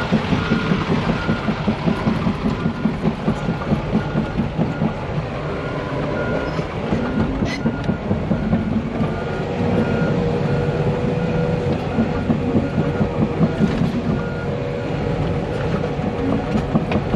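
CAT 340 excavator running and travelling, its tracks clanking in a steady pulsing rhythm, with its travel alarm giving a steady series of short beeps.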